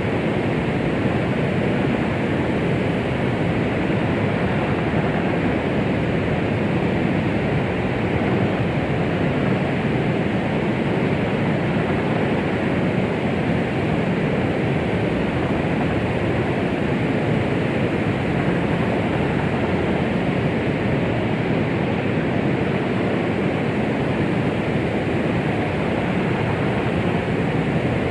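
Steady shaped white noise meant to imitate the sound inside the womb: an even, unbroken rushing hiss, heavier in the low range, with no heartbeat or other pulse.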